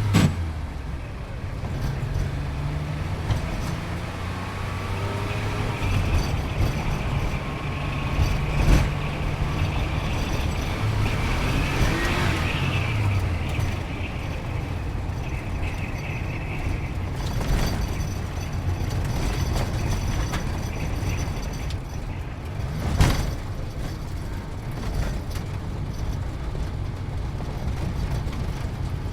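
Sports car engine running, mostly steady with a few rises and falls in pitch, with three sharp knocks: one right at the start, one about a third of the way in and one about three quarters of the way through.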